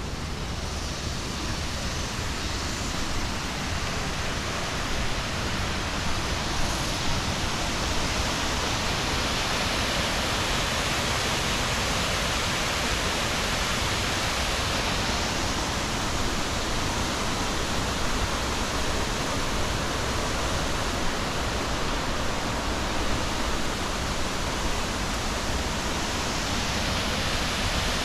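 Waterfall: a steady rush of falling water, growing a little louder over the first few seconds and then holding even.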